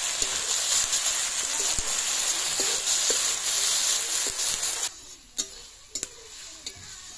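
Ground spice paste with onions and bay leaves sizzling in hot oil in a steel kadai while a metal spatula stirs it. About five seconds in the sizzle drops away sharply, leaving a few sharp clicks of the spatula against the pan.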